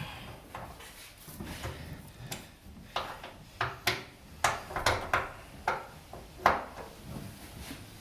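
A series of sharp metallic clicks and knocks, about nine, irregularly spaced and loudest in the middle, from a breaker bar and socket straining on a rusted truck-bed bolt as it starts to break loose.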